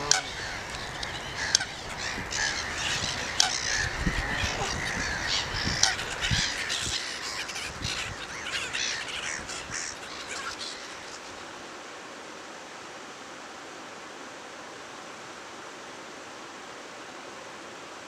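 Birds calling with many short, sharp calls, which stop about eleven seconds in, leaving only a steady hiss.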